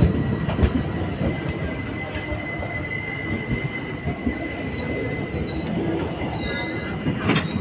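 Passenger express coaches rolling past close by: a dense rumble of wheels on rails with many small knocks, a steady high squeal over it, and a sharp knock near the end.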